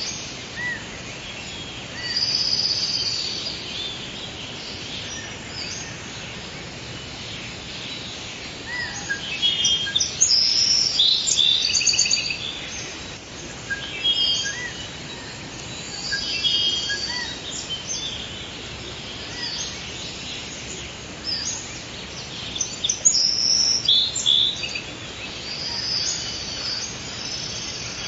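Forest ambience: several birds singing and chirping in short trills and calls over a steady background hiss, with the birdsong busiest in two stretches, in the middle and near the end.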